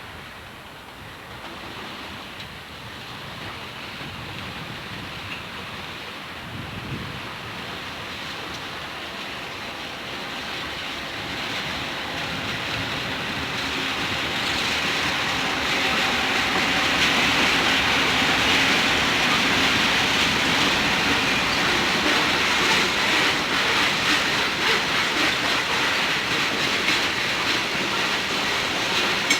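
Freight train rolling past: the sound of its wheels on the rails grows steadily louder over the first half, then holds as a steady rumble with the clatter of wheels over rail joints and a faint wheel squeal.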